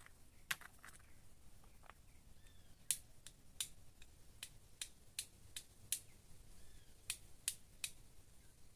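Dry wood snapping and popping: about fourteen sharp, bright clicks at irregular intervals, each very short.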